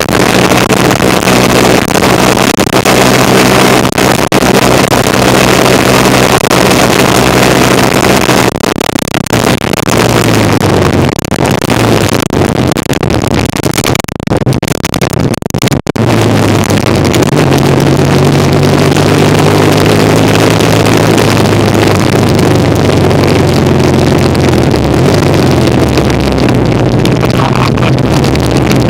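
1975 Kawasaki KZ400 parallel-twin motorcycle engine running under way, with heavy wind noise on the microphone. The engine note holds steady, falls as the bike slows about a third of the way in, drops out briefly just past halfway, then holds steady again and later falls and rises.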